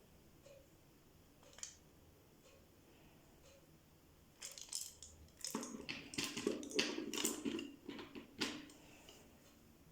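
Small metal objects and tools clinking and rattling as they are handled on a work surface, in a busy run of clicks from about halfway through until near the end. Faint, evenly spaced ticks come before it.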